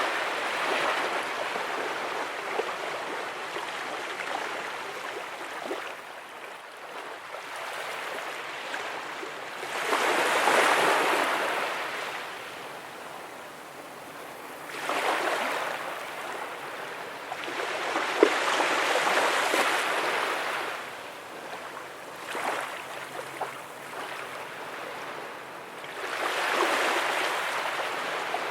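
Ocean waves breaking and washing up on the beach, swelling and fading every few seconds, with the loudest surges about ten and nineteen seconds in.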